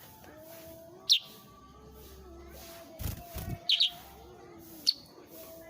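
A caged songbird giving three short, sharp high chirps, spaced about a second or more apart, with a couple of low thumps about three seconds in.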